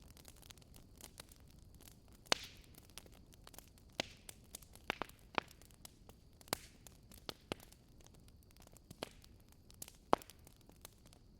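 Wood fire in a fireplace crackling: irregular sharp snaps and pops over a faint steady hiss, with the loudest pops about two seconds in and near the end.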